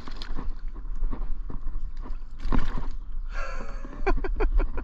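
A sharp splash about two and a half seconds in as a bass strikes the topwater frog lure, followed by a short quick run of knocks and water noise from the hooked fish and the kayak.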